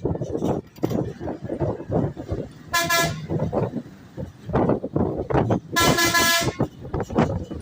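A vehicle horn sounds twice, two short toots about three seconds apart, over a steady run of irregular knocking and clattering.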